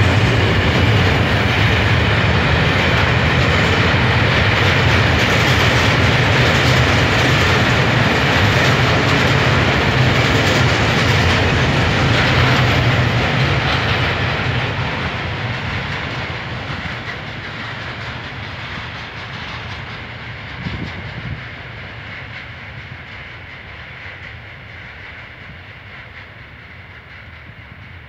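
Wagons of a mixed freight train rolling past on the track, loud and steady, then fading gradually from about halfway as the end of the train moves away.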